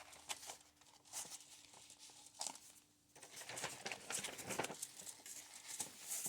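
Paper pages of a handmade junk journal rustling and crinkling softly as they are handled and turned, in scattered faint rustles with a short lull about three seconds in.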